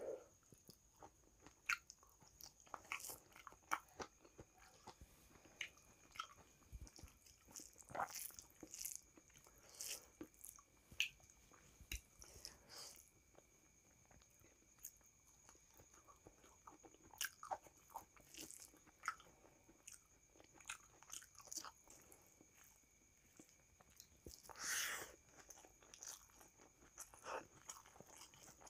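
Close-up mouth sounds of a person chewing a hand-fed mouthful of rice and vegetables: soft, wet chewing and smacking clicks at an irregular pace, with a longer, louder mouth sound about three-quarters of the way through.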